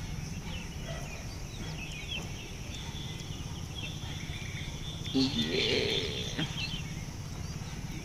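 Village birds chirping faintly and intermittently, with one louder call about five seconds in.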